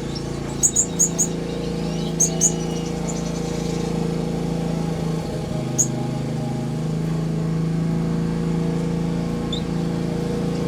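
Short high chirps from small aviary birds: four quick ones about a second in, two more a second later and a single one near six seconds, over a steady low mechanical hum.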